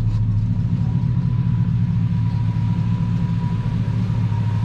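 Square-body truck's engine idling steadily, an even low rumble, with a faint thin steady whine above it.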